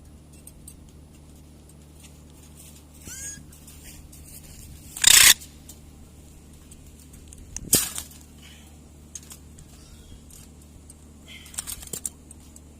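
African grey parrots calling: a short whistle about three seconds in, then two loud harsh screeches about five and eight seconds in, with a few light clicks near the end over a steady low hum.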